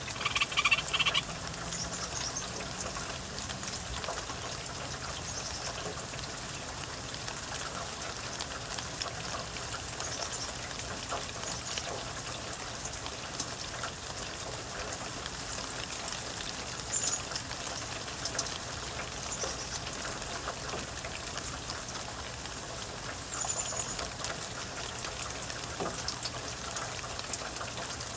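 Steady rain falling, with a loud gray treefrog trill in the first second and a few faint, short high chirps scattered through.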